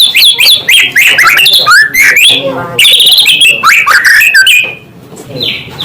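White-rumped shama (murai batu) singing a loud, rapid run of varied whistles and slurred, gliding notes. Near the end the song breaks off briefly before one more whistle. This is the full territorial song used as a lure to provoke rival shamas.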